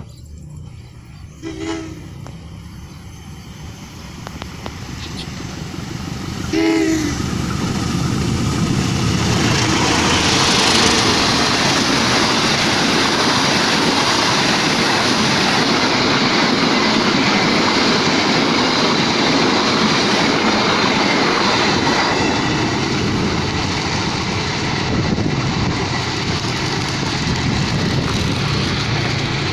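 Two short blasts of a diesel locomotive's horn, then the Sancaka passenger train, double-headed by two diesel locomotives, passing close by with a loud rumble and clatter of wheels on rail.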